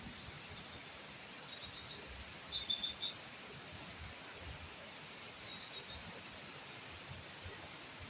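Short runs of high, quick bird chirps, three or four notes at a time, the loudest run about two and a half seconds in, over a steady high insect drone.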